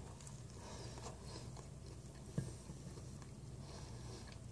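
Faint chewing of a mouthful of toasted-waffle sandwich with scrambled eggs and bacon, with one small click a little past halfway.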